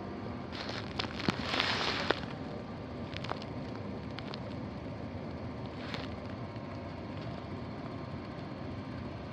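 Steady background noise, with a brief burst of rustling and crackling and a few sharp clicks about a second in, then a few faint ticks.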